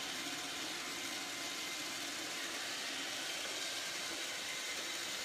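Steady, even background noise like a hiss, with no distinct events.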